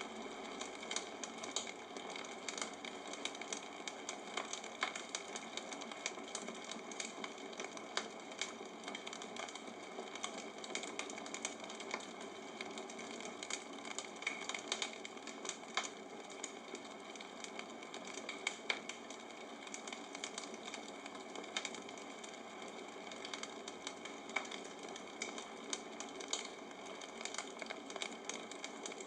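Bonfire crackling: irregular sharp pops and snaps over a steady hiss of burning.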